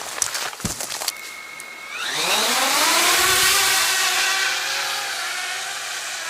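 A motor or engine spooling up: a rising whine under a loud rush of noise, which levels off and slowly fades. A few sharp clicks come just before it.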